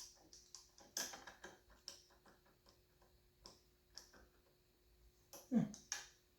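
Faint, scattered light clicks and taps of small engine parts being handled, with a louder knock about five and a half seconds in.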